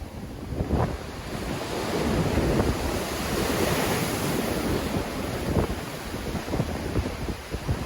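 Black Sea waves breaking in a strong wind: a wave's rushing wash swells a couple of seconds in and fades. Wind buffets the microphone throughout.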